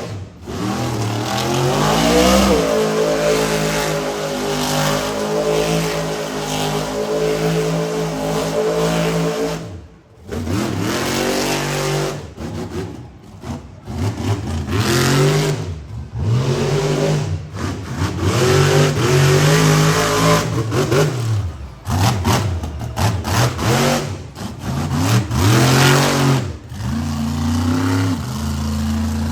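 Monster truck's supercharged V8 engine revving hard. The throttle is repeatedly floored and chopped, so the pitch climbs and falls over and over, with brief drops in sound between pulls.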